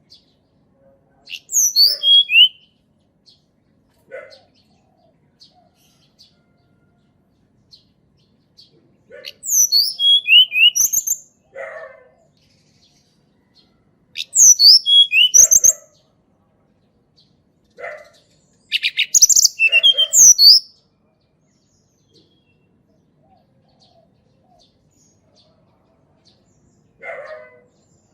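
Tledekan gunung singing in the wild: four phrases of quick, high, down-sliding whistled notes, each about two seconds long, separated by pauses of a few seconds. Short, lower, hoarse calls come in between.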